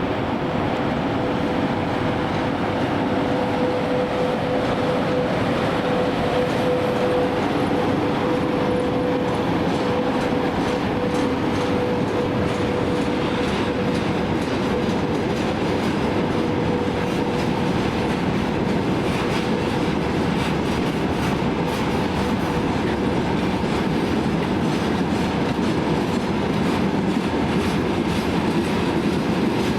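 A train rolling along the station tracks, a steady running rumble with the wheels clicking over rail joints. A steady hum fades away over the first half.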